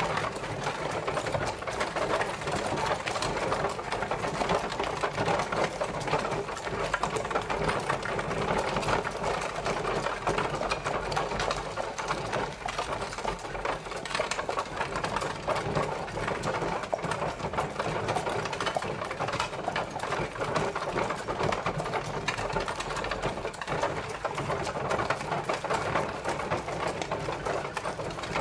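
Horse-drawn carriage rolling along: a steady, rapid clattering rattle of the carriage over a low rumble.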